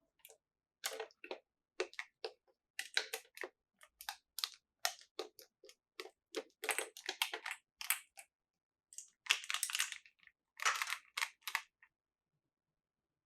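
Small plastic toy pieces being handled and set down: a run of irregular light clicks and taps, with two short stretches of rustling a little after nine and eleven seconds in.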